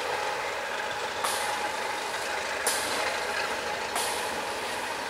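Slow freight train rolling away on the rails: a steady rolling and grinding noise, with three sharp hissing sounds that each start abruptly, about a second and a half apart.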